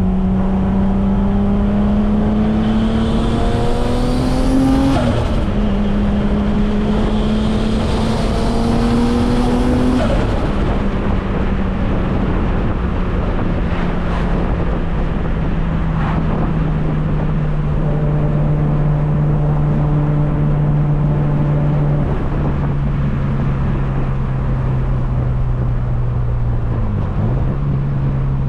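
Turbocharged BMW M50 straight-six in an E36 accelerating hard through one gear, shifting up about five seconds in, pulling through the next gear until another shift about ten seconds in, then settling to a steady cruise. A high turbo whine climbs along with the engine note during both pulls.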